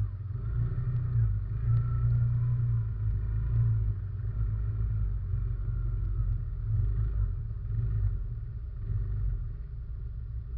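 RM 500 ATV engine running as it is ridden, heard close from a camera mounted on the quad: a steady low rumble that swells and eases with the throttle.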